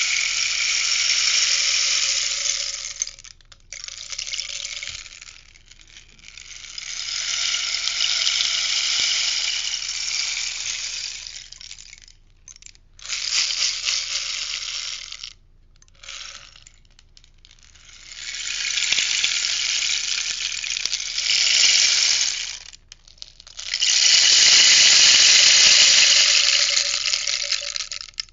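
Rainstick tipped back and forth, its filling pattering down inside in a series of long hissing cascades. Five pours follow one another with short pauses between them; the last is the loudest.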